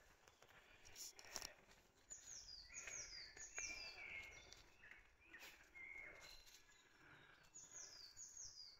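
Faint songbird song: quick runs of high whistled notes, each sliding down in pitch, in two bursts with a few lower notes between. A couple of soft rustling crackles about a second in.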